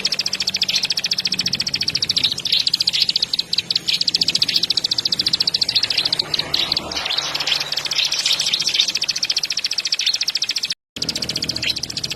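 Long-tailed shrike (cendet) singing in a fast, unbroken run of high chattering notes, with only a few brief pauses; the sound cuts out for a split second near the end.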